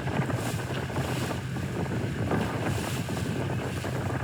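Wind buffeting the microphone and water rushing past a moving boat on open waves, over a steady low drone.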